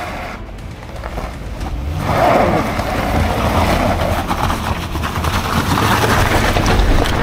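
Mitsubishi Xpander's four-cylinder engine revving hard under load as it struggles up a steep, loose-gravel slope while being pushed, with tyres scrabbling on the stones; the revving gets louder about two seconds in.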